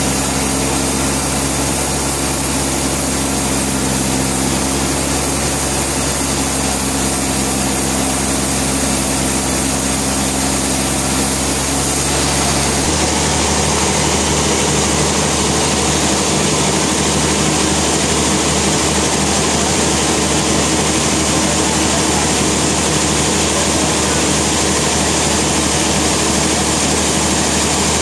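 Sawmill machinery running steadily and loudly; its tone changes about thirteen seconds in.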